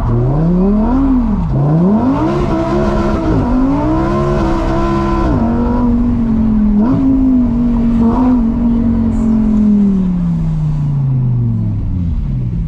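Lamborghini Huracán EVO Spyder's V10 engine revving up and down several times in quick succession, then holding a steady high rev for several seconds before falling away near the end.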